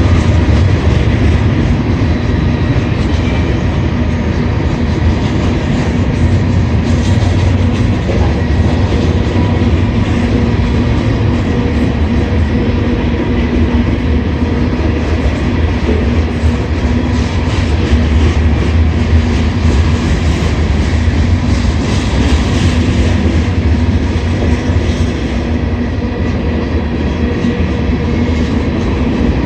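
Slow freight train rolling past, loud and steady: a low rumble from the cars with a constant patter of wheel clicks over the rail joints.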